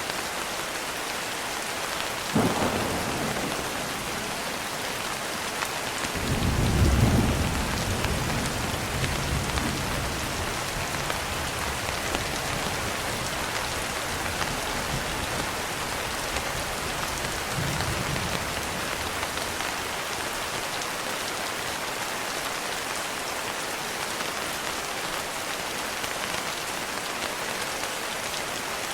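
Steady rain falling, with thunder. There is a sharp crack about two seconds in, then a louder low rumble that builds around seven seconds and dies away over several seconds, and a fainter rumble near eighteen seconds.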